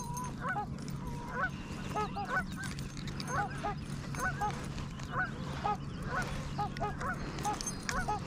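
Birds calling in the distance: a long run of short, repeated calls, two or three a second, over a steady low hum.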